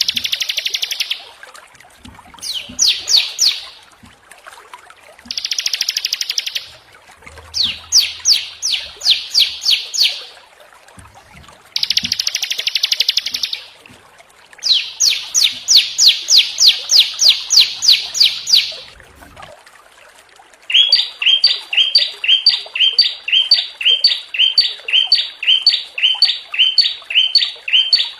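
Small songbirds singing: harsh buzzy trills alternating with fast runs of sharp down-slurred notes, then from about 21 seconds in a steady string of repeated two-part chirps, about two a second.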